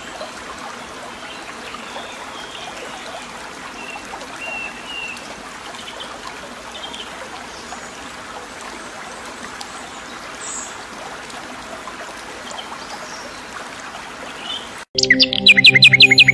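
Steady rush of a trickling stream with birds chirping faintly over it. About fifteen seconds in it cuts off abruptly and loud music begins.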